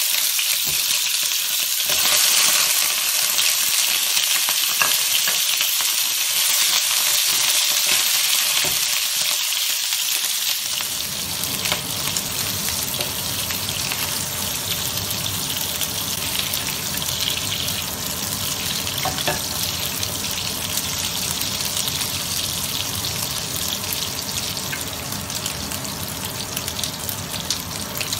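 Pork rib pieces frying in a hot wok with a steady, loud sizzle. About eleven seconds in, a lower steady rumble joins underneath the sizzle.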